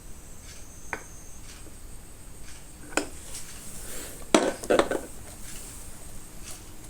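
A few light clinks and knocks, the loudest a close pair about halfway through, from the brake fluid bottle and the motorcycle's front brake master cylinder reservoir being handled while the reservoir is filled with brake fluid.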